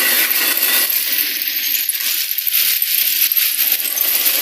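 Ballast work train giving a steady, loud metallic clatter and rattle, made of many small clinks close together.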